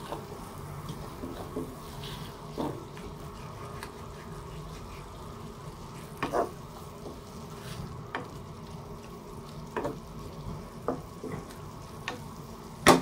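Chicken breast slices sizzling in oil in a pot while a wooden spatula stirs them, with short knocks of the spatula against the pot every second or two and one louder knock near the end.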